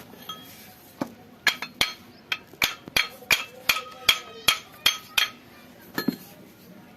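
A hammer striking metal about a dozen times, roughly three blows a second, each with a short metallic ring, then one more blow after a pause.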